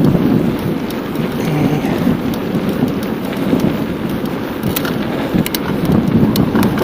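Wind buffeting the microphone of a camera on a moving bicycle, a loud steady rumble, with a few sharp ticks in the second half.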